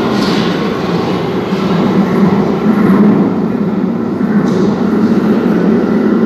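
London Underground Victoria line train (2009 Stock) moving at the platform: a loud, steady rumble of wheels on rail and running gear.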